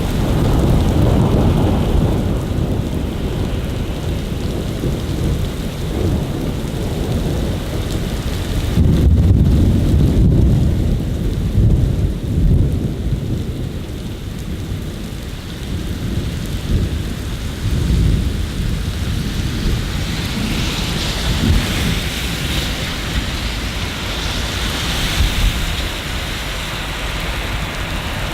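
Steady rain with thunder rumbling throughout, swelling several times, heaviest about nine to eleven seconds in; the rain hiss grows louder during the last third.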